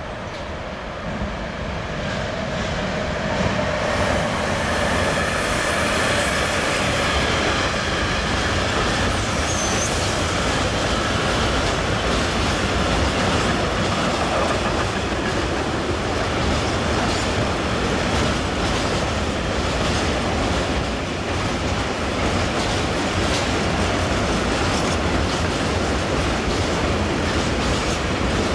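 A freight train of tank wagons passing close by, its wheels clattering over the rail joints in a steady rumble. It grows louder over the first few seconds as it arrives, with a high-pitched wheel whine over the first ten seconds.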